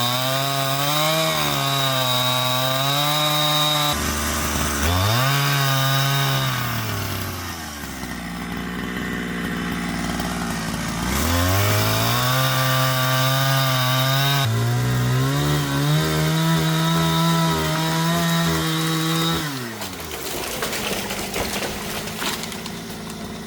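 Two-stroke chainsaw cutting a tree, held high because of rocks at the base. The engine pitch sags and recovers as the chain loads up in the cut, drops to a low idle briefly around eight to eleven seconds in, then rises again and runs under load before falling away at the end.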